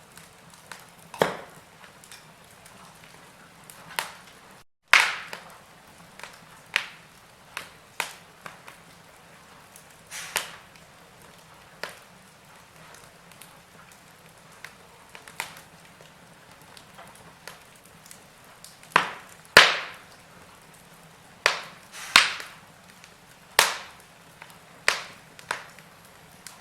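Wood fire crackling in a fireplace: irregular sharp pops and snaps over a soft hiss. The sound cuts out briefly just before a loud pop about five seconds in, and a cluster of loud pops comes in the second half.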